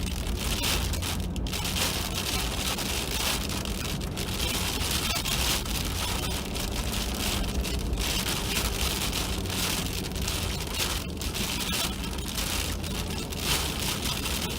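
Freezing rain, like hail, pelting the truck cab in a dense steady hiss of hard little hits, really loud, over the low steady hum of the truck's engine.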